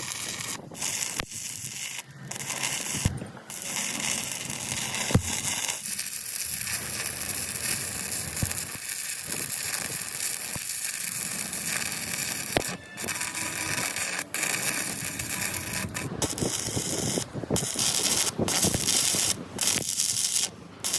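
Electric arc welding crackling and hissing, with the arc broken off and struck again several times.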